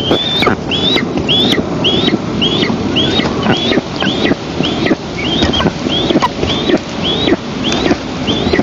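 Eastern imperial eagle nestling begging for food: a high, thin, rising call repeated about twice a second without a break. Wind buffets the nest-cam microphone underneath.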